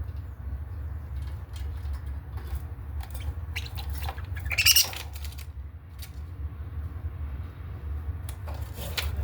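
Budgerigars chirping in short bursts, the loudest about halfway through and more near the end, over a steady low rumble.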